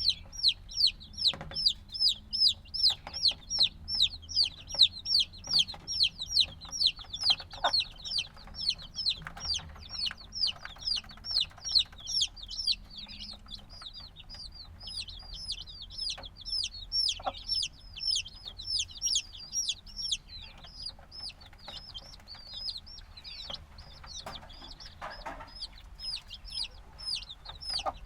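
A group of chicks a few days old peeping continuously: short, high chirps that fall in pitch, several a second, busiest and loudest in the first half, then sparser and softer.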